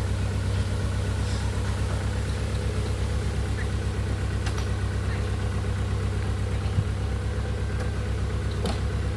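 Truck engine idling steadily, with a low even hum, while a couple of faint knocks sound in the middle and near the end.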